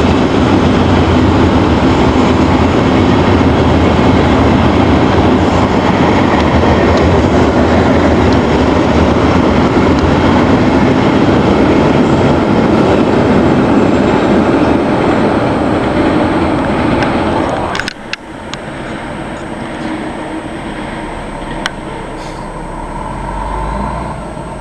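A freight train of tank cars rolling past close by: a loud, steady rumble of wheels on rail. It drops off sharply about eighteen seconds in, leaving a much quieter background.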